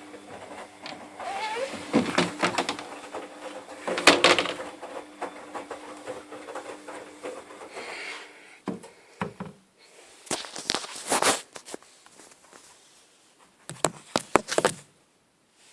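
A domestic machine's steady hum with knocks and clicks over it, the hum stopping about halfway through, followed by sharp clicks and rattles near the end.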